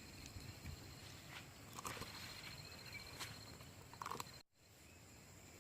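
Faint brief cries and scuffling of animals fighting over something they have carried off, with short squeals about two seconds in and again about four seconds in. A steady thin high buzz of insects runs underneath.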